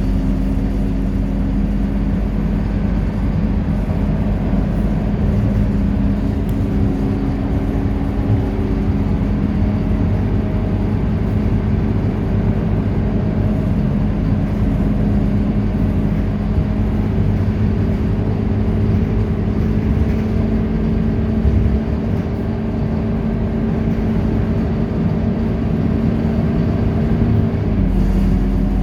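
Scania K230UB bus's diesel engine running steadily under way, a constant low drone. Near the end the engine note drops in pitch.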